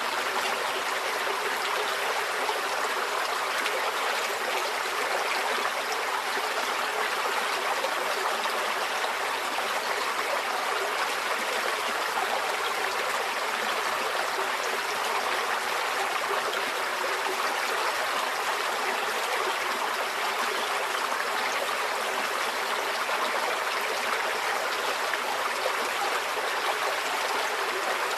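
Small forest stream flowing steadily over stones, a constant even rush and trickle of water with no pauses or changes.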